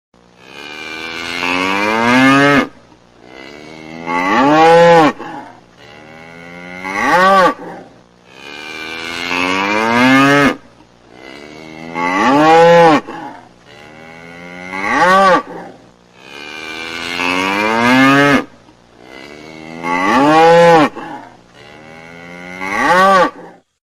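Cow mooing: nine long, loud calls with short gaps between them, made of the same set of three calls repeated three times.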